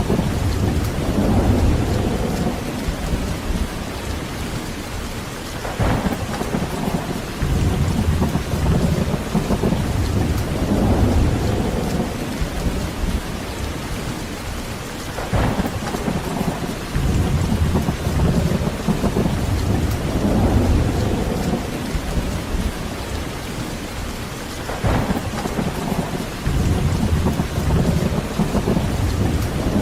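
Heavy rain falling steadily with rolling thunder that swells and fades. Three sharper thunder claps come about every nine seconds.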